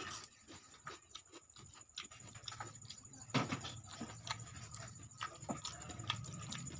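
Close-miked eating sounds: a man chewing a mouthful of dal and rice with wet lip-smacking and mouth clicks, while his fingers mix rice and dal on a steel plate.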